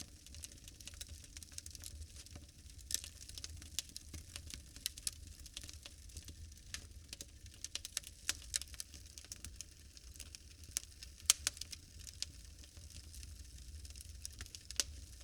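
Wood fire crackling: irregular sharp pops and snaps, the loudest about 11 seconds in, over a faint steady hiss and low rumble.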